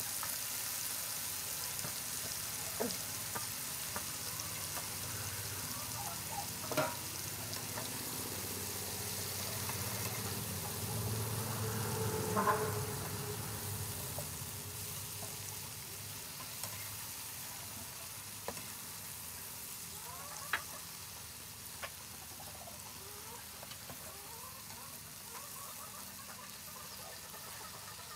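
Mushrooms sizzling in oil in a nonstick frying pan as they are stirred with a spatula, with a few sharp taps and scrapes of the spatula against the pan. The sizzle gradually quietens toward the end.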